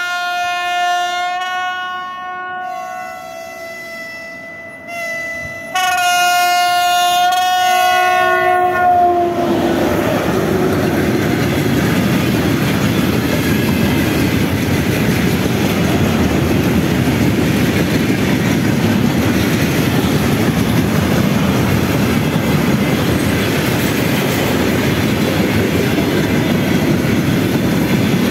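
A 2ES4K electric freight locomotive sounds its horn in several blasts for about nine seconds, the pitch dropping as it passes. Then its freight train of tank wagons rolls past, with the steady noise of wheels on rail.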